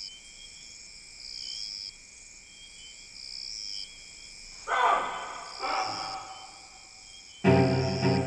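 Insects chirping in pulses about every two seconds over a steady high hum. About five and six seconds in come two sudden ringing hits, and near the end a loud sustained musical chord begins.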